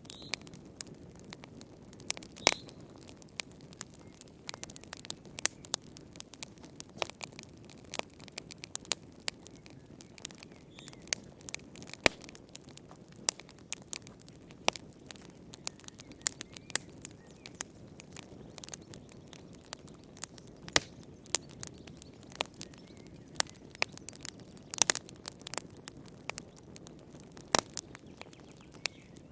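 Wood fire burning in a fireplace, crackling: irregular sharp pops and snaps, some much louder than others, over a steady low rush of the flames.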